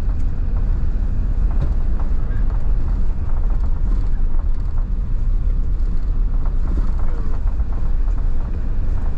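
A car driving, heard from inside the cabin: a steady low rumble of engine and tyre noise.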